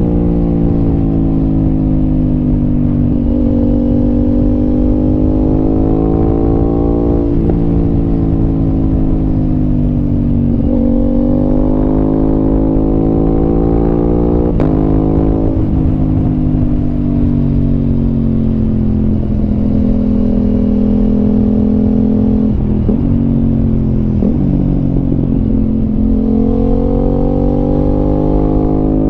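Aprilia RS 660's 659 cc parallel-twin engine breathing through an SC Project aftermarket exhaust, heard while riding. Its pitch rises and falls as the bike speeds up and slows, with several sudden jumps in pitch between.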